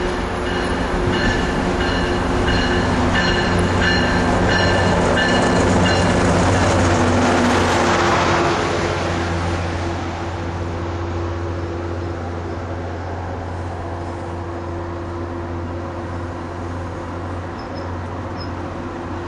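Diesel commuter train pulling into the station, with a warning bell ringing about twice a second for the first six seconds over the steady drone of the diesel engine. The train's noise swells as it comes alongside, loudest about eight seconds in, then the cars roll past more slowly over a steady engine drone.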